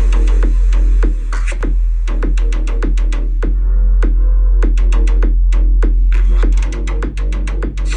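Electronic hip-hop beat played loud through a W King X20S Bluetooth speaker without bass boost. A heavy, steady sub-bass hum runs under a fast run of sharp drum-machine clicks, with no vocals.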